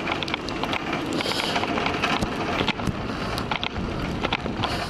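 Wind rushing over the microphone while riding a bicycle through a snowstorm, with frequent small clicks and rattles from the moving bike.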